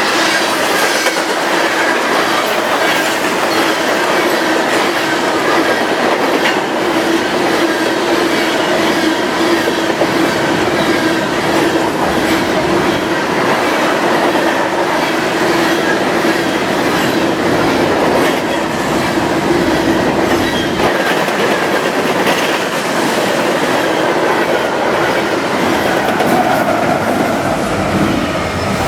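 A train's cars rolling steadily past at close range, steel wheels clattering over the rail joints with a steady tone running through it.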